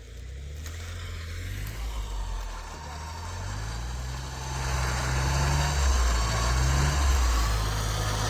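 An off-road vehicle's engine revving under load, its pitch climbing in several steps and dropping back, with a broad hiss that grows louder from about four seconds in.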